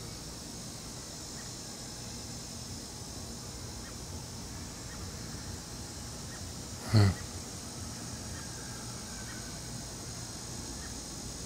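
A steady, high-pitched chorus of insects. About seven seconds in there is one short vocal sound, and a few faint chirps follow.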